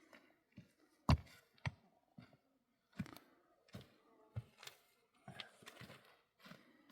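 A series of irregular clicks and knocks, about a dozen, with the loudest a little over a second in.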